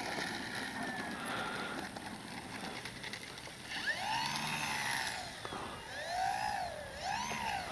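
Brushless electric motor and propeller of an E-flite Sportix RC plane in flight. The whine is fainter at first. From about halfway in, its pitch swings up and down three times.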